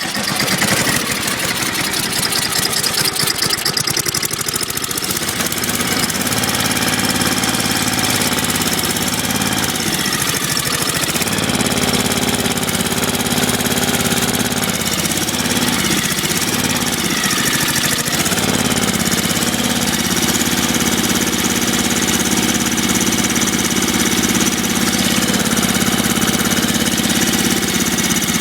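1997 MTD Yard Machines snowblower engine, just cold-started on choke, catching and running steadily. Its pitch shifts a little partway through.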